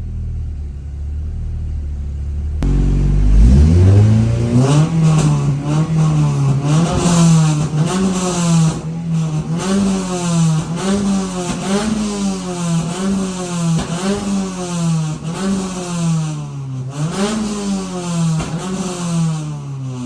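Honda Integra B-series four-cylinder through a Toda-style header and 2.5-inch exhaust: a low idle rumble, then about two and a half seconds in the engine is revved up and blipped again and again, its pitch rising and falling roughly once a second.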